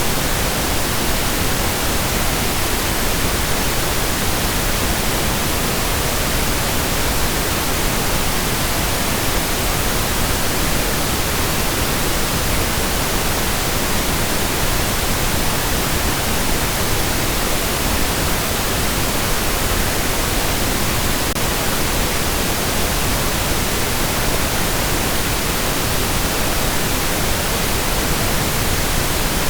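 Steady pink noise: an even, constant hiss spread across the whole range, without tones or changes.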